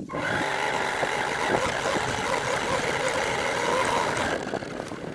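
R/C monster truck running at speed, a steady motor and drivetrain noise that starts suddenly and dies down about four seconds in.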